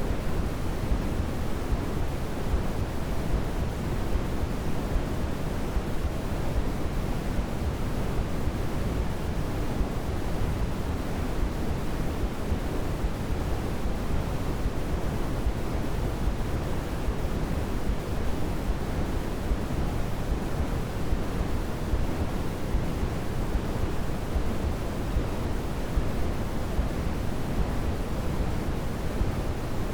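Steady white-noise sleep sound: an even, unchanging hiss weighted toward the low end, with no swells or breaks.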